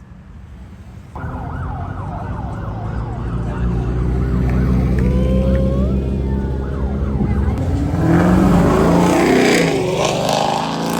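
A police siren yelping and wailing over the steady low running of a car engine. A louder surge of engine and road noise comes near the end.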